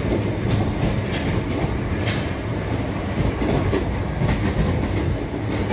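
A train running on the rails with a steady low rumble, its wheels clacking over rail joints again and again.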